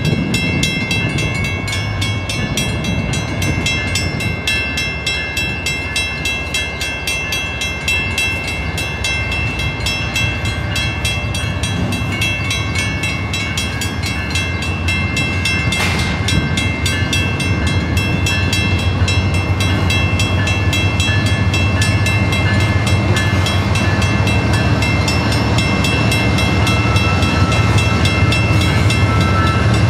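Grade-crossing bell ringing steadily while CN's GE GEVO diesel-electric locomotives (ET44AC and ES44DC units) move slowly through the crossing. Their engine rumble grows louder in the second half as the units pass close by.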